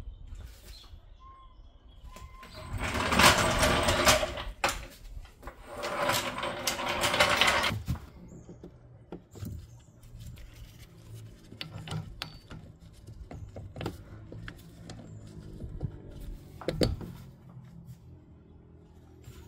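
Tool work on a car's rear suspension: two bursts of rapid mechanical rattling, about two seconds each, then scattered metallic clicks and knocks of tools and parts.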